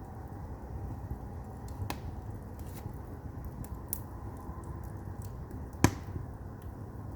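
Firewood burning in a traditional Korean agungi firebox: a steady low rumble of the fire with scattered crackles and pops from the logs, the loudest pop about six seconds in.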